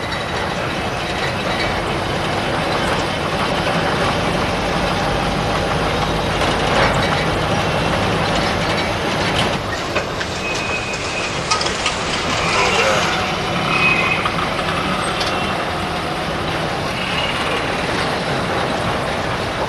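Street traffic noise: a steady mix of passing vehicles and people's voices, with a few short high tones in the second half.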